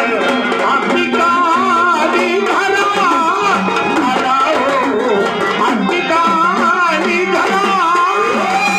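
Marathi folk music with a dholki drum playing a steady rhythm, under a wavering melodic line and a sustained low drone.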